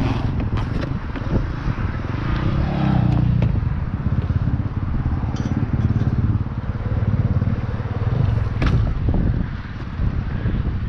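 KTM 250 SX-F single-cylinder four-stroke motocross bike running through an Akrapovic exhaust, revving up and easing off with the throttle, with a few sharp knocks from the bike. It quietens about ten seconds in.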